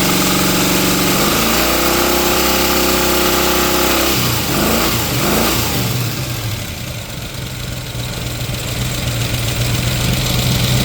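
1970 Mustang Mach 1's 351 Cleveland four-barrel V8 running after a cold start: it idles, its speed rises for a couple of seconds, then drops back and settles into a lower, steady idle.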